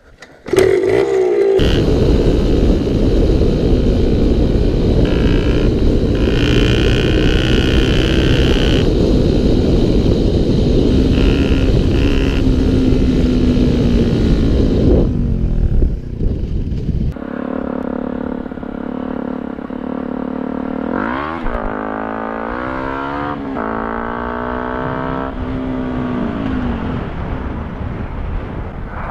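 Motorcycle engine running under way with heavy wind noise on the microphone; in the second half it revs up and shifts several times, the pitch rising and dropping back.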